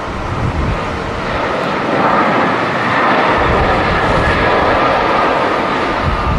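Jet airliner engines, a loud steady rushing noise that swells about two seconds in and holds, with strong wind buffeting the microphone.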